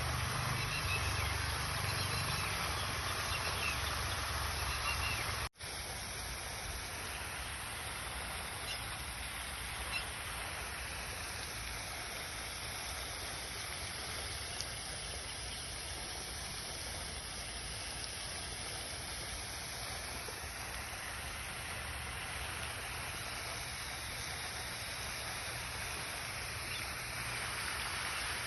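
Outdoor pond ambience: a steady hiss of water and open air with a few faint bird calls. It drops out abruptly about five and a half seconds in and resumes slightly quieter with less low rumble.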